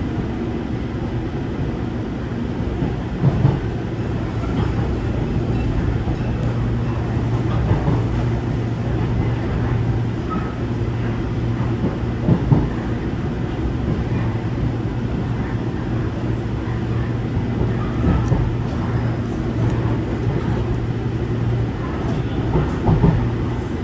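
Seoul Metro Line 1 electric commuter train running, heard from inside the carriage: a steady low hum over the rumble of wheels on rail, with a few short knocks.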